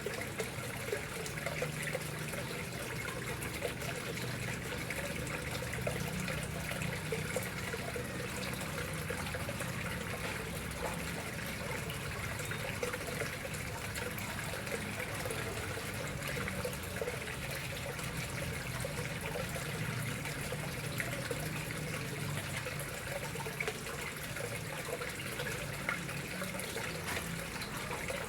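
Water flowing steadily at a koi pond, a continuous, even trickling rush with no pauses.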